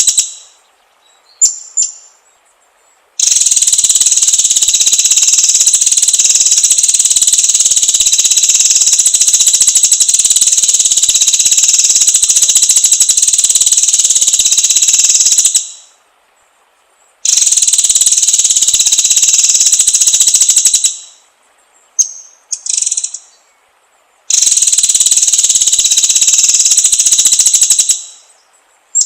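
High-pitched, insect-like buzzing calls held steady for seconds at a time: three long stretches, the first about twelve seconds. Each starts suddenly and fades out. A few short chirps fall in the gaps between them.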